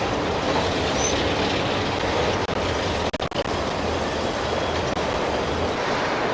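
Steady running noise of a moving vehicle, an even rush with no clear tone, broken by three brief drop-outs near the middle.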